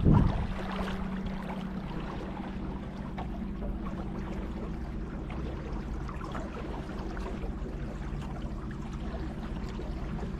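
Motorboat engine humming steadily over the wash of river water, with a brief loud bump right at the start.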